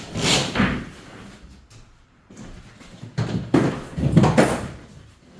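A sheet of uncoupling membrane mat being handled and laid down on the floor: rustling and thumping in two bursts, a short one at the start and a longer one a little past the middle.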